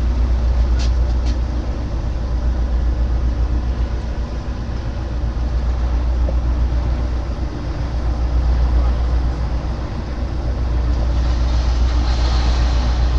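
Heavy machinery running steadily with a deep, low rumble. A hiss swells up near the end.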